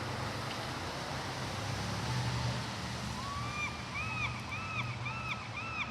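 A gull calling: one drawn-out note a little past halfway, then a quick run of short repeated calls, about two or three a second. Under it is a steady wind-like hiss and a low rumble.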